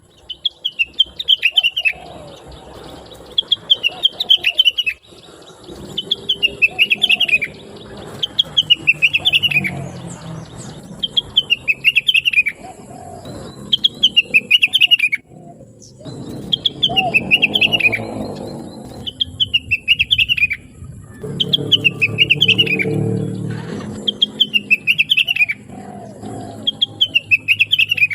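Rengganis (cucak wilis) songbird calling over and over: a short phrase of quick, high, falling chirps repeated about every one and a half seconds, with a quieter low sound beneath.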